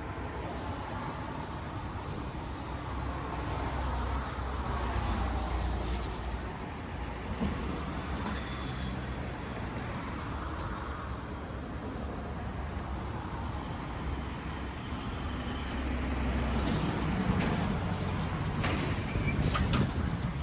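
Road traffic on a busy highway: vehicles passing with engine rumble and tyre noise that swells as they go by, loudest near the end, with a few sharp clicks.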